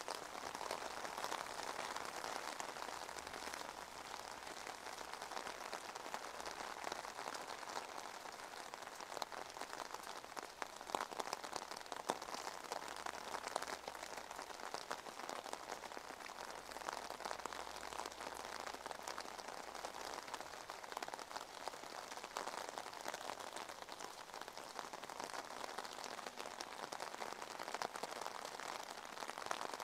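Steady rain falling on wet pavement: an even hiss dotted with many small drop ticks.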